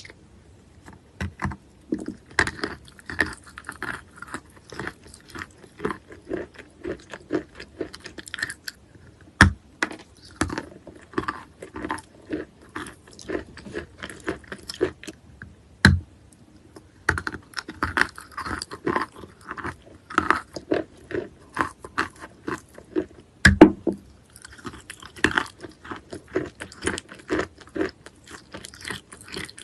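Close-up chewing and biting of wet natural chalk: a steady run of irregular crunches and soft chewing, with a few louder, sharper bites.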